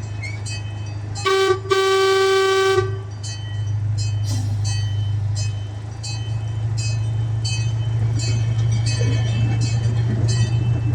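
Zoo train's horn sounding two blasts, a short one then a longer one of about a second, over the steady hum of the train running with regular clicking from the track.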